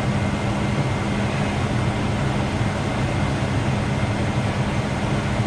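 A vehicle engine running steadily under way, a constant low drone with a steady hum.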